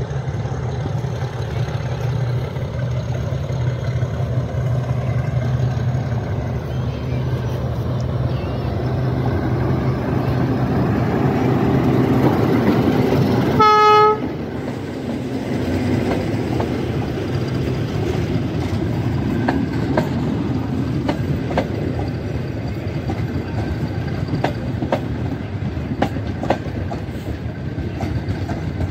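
Metre-gauge diesel locomotive approaching with a steady engine drone that grows louder. About halfway through it sounds one short horn blast as it passes close by. Its coaches then roll past with a clickety-clack of wheels over the rail joints.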